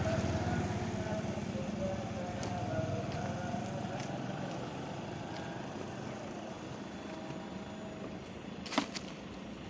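Road traffic: a motor vehicle passing and fading steadily away, leaving street background noise, with one short sharp sound near the end.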